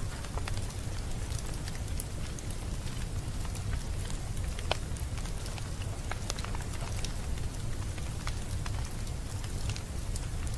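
Wood fire in a fireplace crackling, with scattered sharp pops and snaps over a steady hiss and low rumble.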